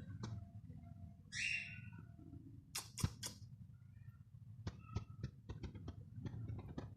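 Cockatiel giving one short, harsh call about a second and a half in, followed by a scatter of sharp clicks and taps that grow quicker in the second half.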